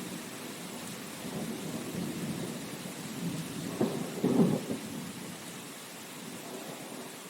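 Steady rain hiss with rolling thunder rumbling through it, strongest about four seconds in and then dying away.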